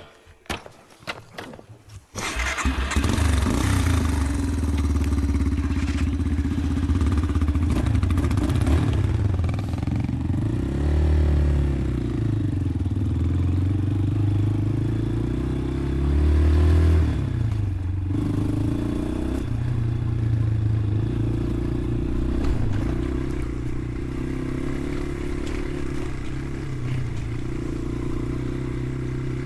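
Dirt bike engine started about two seconds in, then running and revving up and down as the bike rides off.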